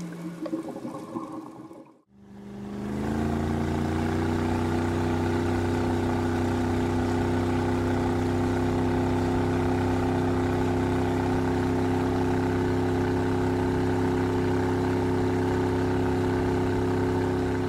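Boat engine running steadily after coming up briefly in pitch about two seconds in. Before that, the tail of fading music.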